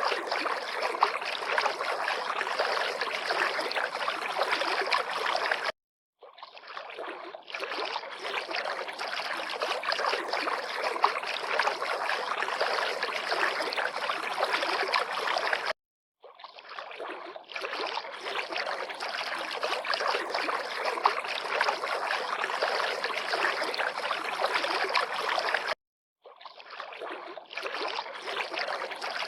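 River water lapping and splashing in a steady rush with small irregular splashes. It cuts off abruptly to silence three times, about ten seconds apart, and each time fades back in over a second or two.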